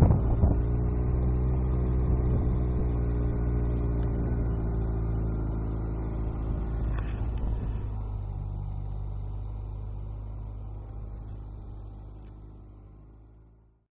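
Motorcycle engine running at a steady, even speed with a low rumble, fading out gradually over the last several seconds.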